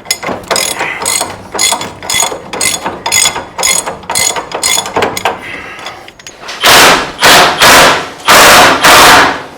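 Ratchet wrench on a big socket clicking about four times a second as a bolt is worked loose. Then, near the end, a run of loud, harsh bursts of noise, each under half a second.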